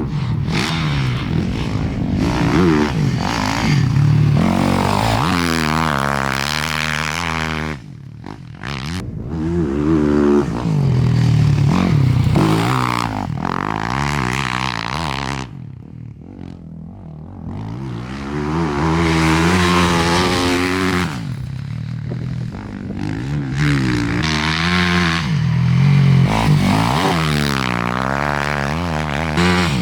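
Motocross bike riding a dirt track, its engine revving up and dropping back again and again through the gears. It grows quieter twice, about a quarter and about halfway through, as it gets farther away.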